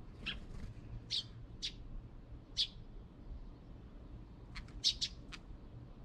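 Small birds chirping: short, sharp single chirps spaced through the first half, then a quick run of four or five chirps near the end.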